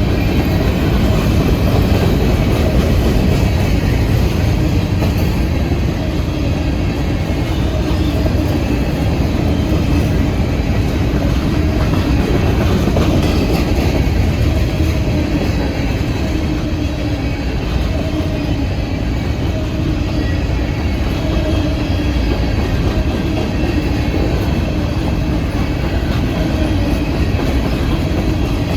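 A train rolling past close by: a steady, loud rumble of railcar wheels on the rails with some clickety-clack.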